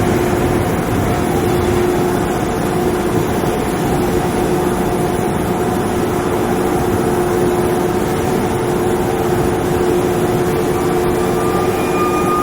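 Billet induction heating line running: loud, steady industrial machinery noise with a steady hum. A higher steady whine comes in near the end.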